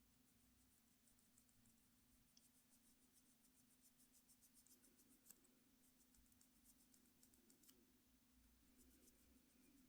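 Faint, quick scratchy strokes, several a second, over a steady low hum, like small hand work on a nail.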